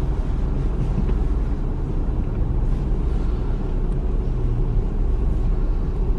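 Steady low rumble inside a car's cabin from the car idling.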